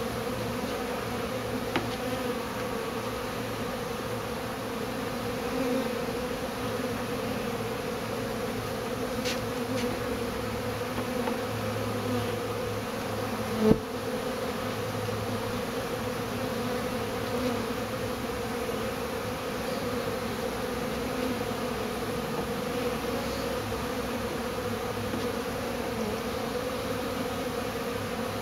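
A large honeybee swarm buzzing steadily at close range. A single sharp knock sounds about halfway through.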